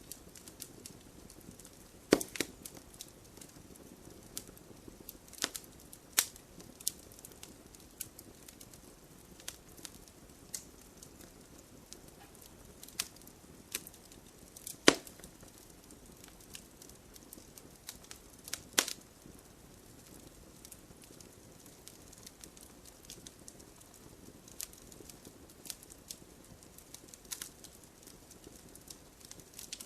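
Wood campfire burning with irregular crackling and sharp pops over a soft low hiss; the loudest pops come about 2, 6, 15 and 19 seconds in.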